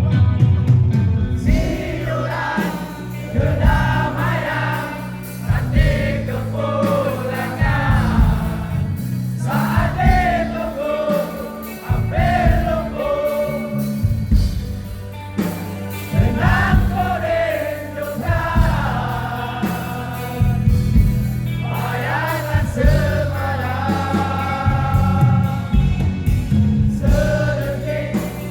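Malaysian rock band playing a song live at a concert, with sung vocals over loud bass and drums.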